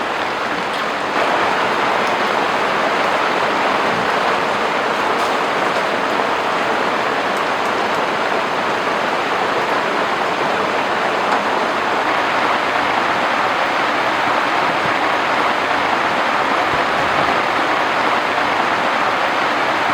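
Heavy rain falling steadily as a dense, even hiss, stepping up in loudness about a second in.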